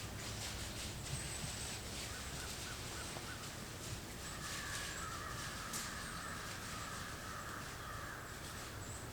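Crows cawing, a run of raspy calls through the second half, with faint clicks and a low background rumble.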